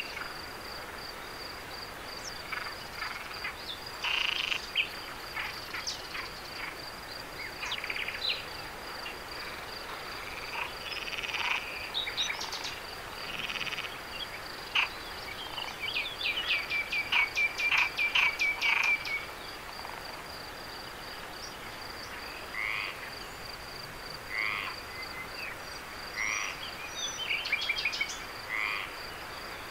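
Night chorus of frogs calling in short, irregular croaks and quick pulsed trills. Behind them runs a steady, high insect trill.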